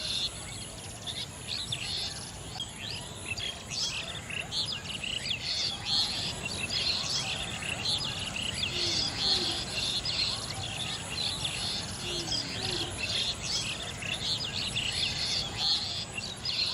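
Many small birds chirping and twittering at once in a steady, busy chorus of short high calls.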